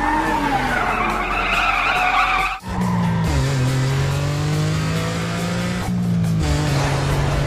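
Cartoon car sound effects: a wavering tyre screech for about two and a half seconds that cuts off sharply, then a car engine running at a steady low pitch, over background music.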